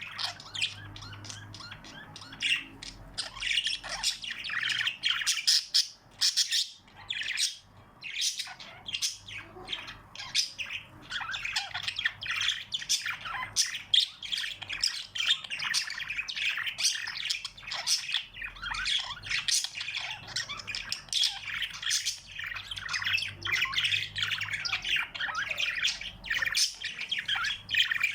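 A group of small birds chirping and squawking without pause, many short calls overlapping one another.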